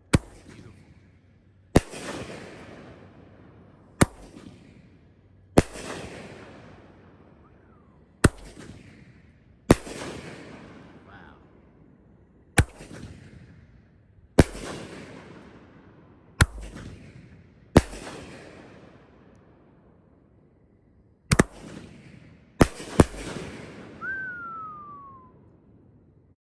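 T Sky Fire Tiger 500-gram, 8-shot firework cake firing: sharp launch and burst reports one to three seconds apart, each followed by a fading hiss as the gold pine-tree breaks spread, the last few reports close together. A short falling whistle sounds near the end.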